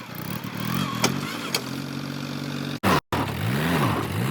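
Diesel engine running, climbing in pitch over the first second, then holding steady, with two sharp clicks. After a brief cut-out near three seconds, an engine revs up and down twice.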